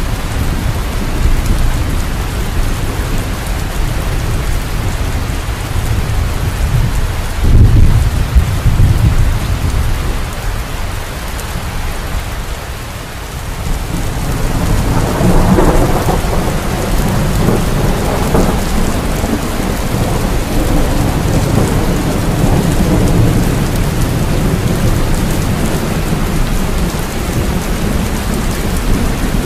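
Steady rain in a thunderstorm. A sudden thunderclap comes about seven or eight seconds in, and a long rolling rumble of thunder builds from about halfway through.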